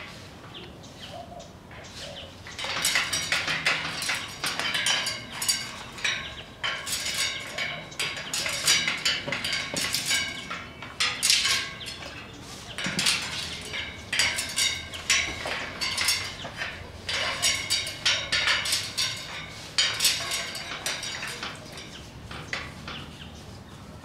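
Harsh, scratchy bird calls, squawks and chatter in quick irregular bursts, starting about three seconds in and dying away a couple of seconds before the end.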